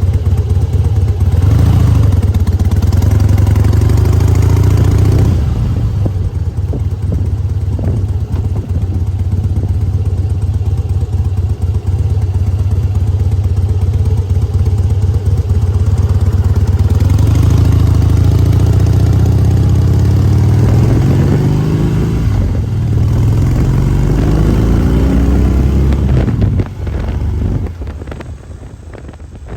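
Harley-Davidson motorcycle engine running at speed, its pitch rising as it accelerates about two seconds in and again from about seventeen seconds, then dropping off sharply near the end as the throttle is closed.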